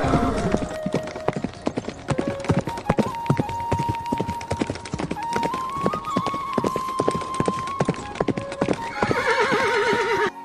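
Horse hooves clip-clopping on hard ground, and near the end a horse whinnies with a quavering call, over background music with long held notes.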